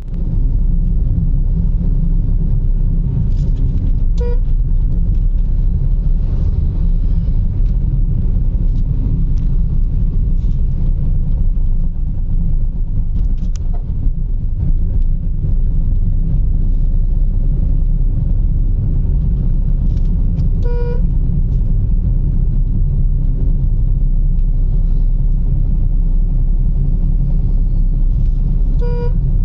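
Steady low rumble of a motor vehicle on the move, with a short horn-like toot three times.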